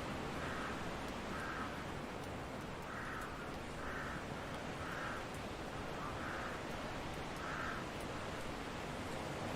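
Steady wind noise, with a bird calling over it: about seven short calls, roughly one a second, that fade out near the end.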